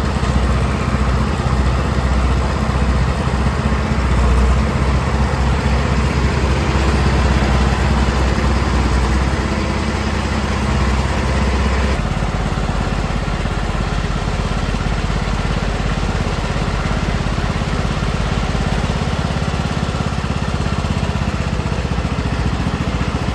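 Farm tractor engine running steadily at a low, even speed; its deep note changes abruptly about twelve seconds in.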